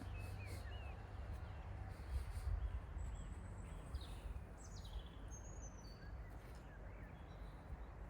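Small birds chirping: scattered short high calls and quick pitch glides, busiest around the middle, over a steady low rumble.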